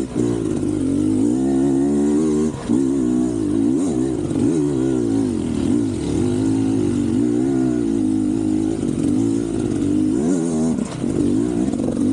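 Beta 300 two-stroke enduro motorcycle engine riding off-road, its revs rising and falling constantly with the throttle, with a brief throttle cut about two and a half seconds in and another near the end.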